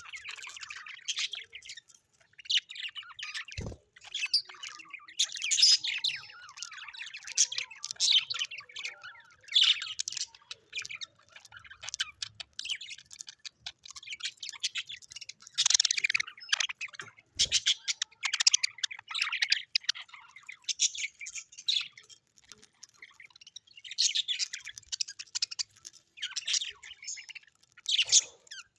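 Small parrots chirping and warbling non-stop, many short high calls overlapping, with a couple of brief low knocks in between.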